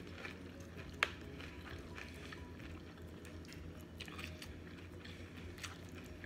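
A person chewing a mouthful of cheesy beef nachos close to the microphone, with soft crunches of tortilla chips and Doritos. A single sharp click about a second in is the loudest sound, over a steady low hum.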